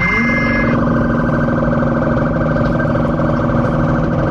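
Car engine revved up quickly and then held at high revs, its exhaust running loud and steady.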